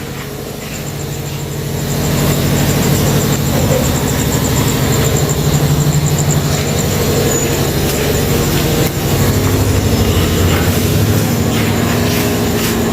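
Engine-driven concrete mixer running steadily during a roof-slab pour, growing louder about two seconds in.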